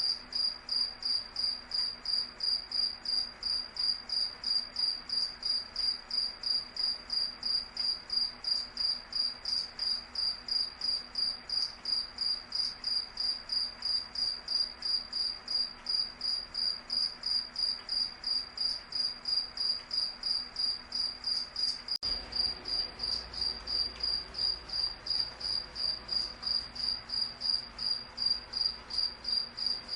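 Crickets chirping steadily: high-pitched, evenly spaced chirps, about two to three a second.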